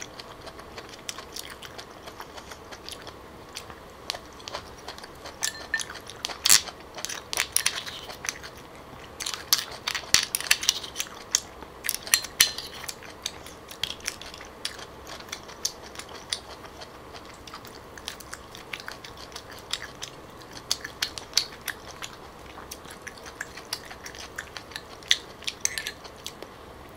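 Close-up chewing and biting of grilled clam meat with scallion oil, with many short wet mouth clicks and now and then a light clink of a metal spoon on the shells.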